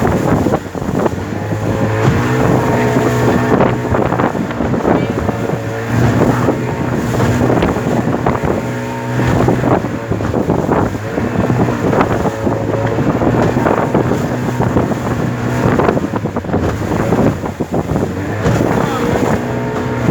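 Motorboat engine running during a crossing, its note swelling and easing every few seconds, with water noise and wind buffeting the microphone.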